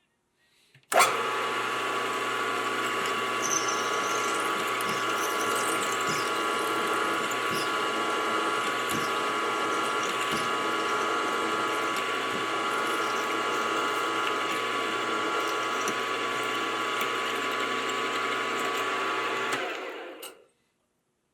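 Machine tool spindle running steadily, cutting small holes in a 304 stainless steel part; it starts abruptly about a second in and winds down shortly before the end.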